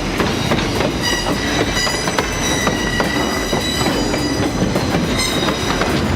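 Freight train wagons rolling past, with steel wheels squealing in several high, steady tones from about a second in until near the end, over a run of clicks from the wheels crossing rail joints.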